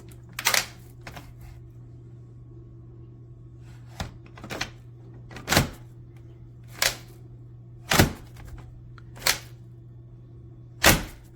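Sharp hard-plastic clacks and knocks, about nine of them, irregularly spaced a half-second to two seconds apart, over a low steady hum: the Kenmore DU5080 upright vacuum's extension wand being worked in and out of its socket, which it will not lock into.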